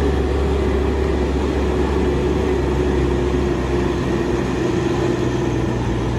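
Toy truck's motor running steadily: a constant drone with a low hum under a held mid-pitched tone.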